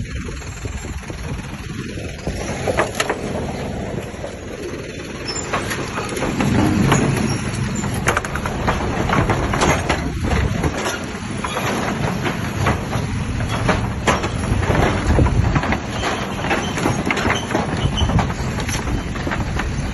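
Overland truck crossing a bridge at low speed: a steady low engine and road rumble with many irregular knocks and clatters as the wheels roll over the bridge deck.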